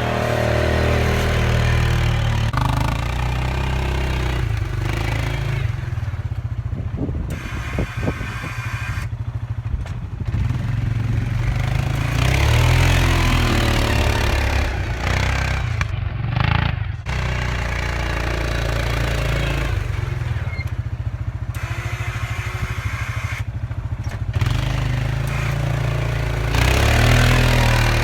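Four-wheeler (ATV) engine running, its pitch and load rising and falling, with a few abrupt changes in sound and a short patch of clicks about eight seconds in.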